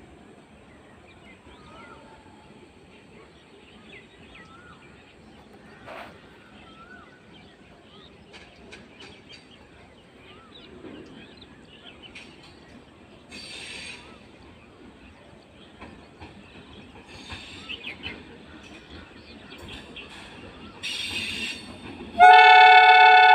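Quiet trackside ambience with faint bird chirps and scattered small noises. About 22 seconds in, a MEMU electric train's horn starts suddenly: a loud, steady multi-tone blast that is still sounding at the end.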